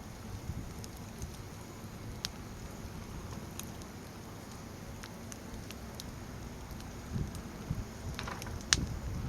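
Firewood burning in a campfire pit: a low, steady rush of flames with scattered sharp crackles and pops, the loudest pop near the end.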